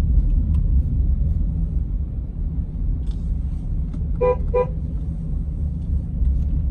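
Steady low road and engine rumble heard from inside a moving car, with two short car-horn toots in quick succession about four seconds in.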